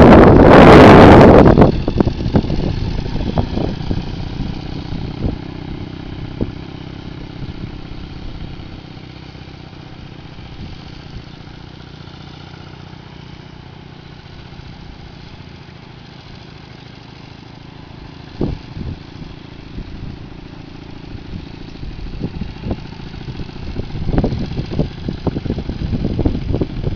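Motorcycle engine running at a low, steady throttle, fading as the bike moves away and growing louder again as it comes back near. A loud rush of wind on the microphone in the first second or two.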